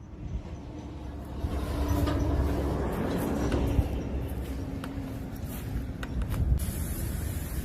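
Steady engine drone that grows louder about a second and a half in and holds, with a steady hum running through it and a few light clicks near the end.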